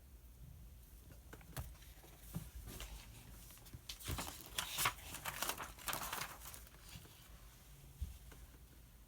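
Paper pages rustling as they are handled and turned, loudest in a burst of rustling in the middle, with a few light knocks on the desk before and after.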